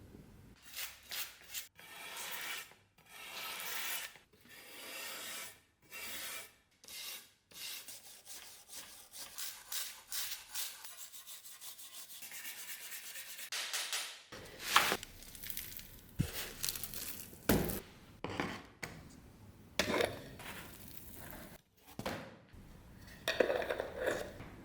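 Sandpaper rubbing back and forth over a rusty steel saber blade in repeated hand strokes, with a few sharper knocks in the second half.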